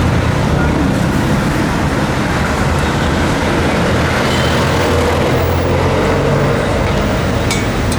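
Steady motor vehicle noise with a low engine hum and busy road traffic, running on without a break.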